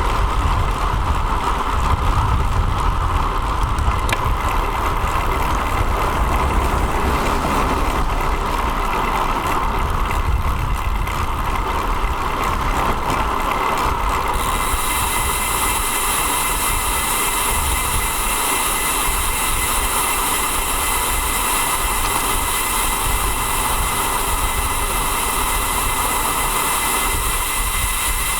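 Riding noise picked up by a bicycle-mounted action camera: a steady rush of wind and road noise with low rumble. A high-pitched whine joins about halfway through and holds.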